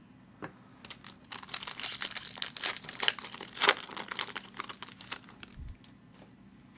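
A foil trading card pack wrapper being torn open and crinkled by hand, a dense run of crackling for a few seconds that stops about five and a half seconds in.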